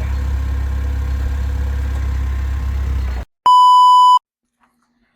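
A vehicle engine runs steadily with a low drone, then cuts off abruptly a little over three seconds in. A loud, electronic beep about three-quarters of a second long follows at a single pitch.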